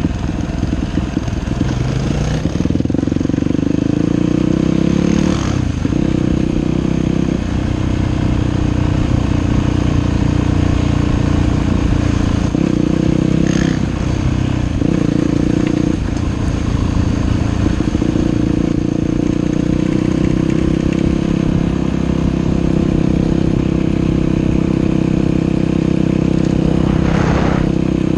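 Dirt bike engine running as the bike is ridden along a trail, its revs rising and falling over and over with throttle and gear changes. A few short knocks come through now and then.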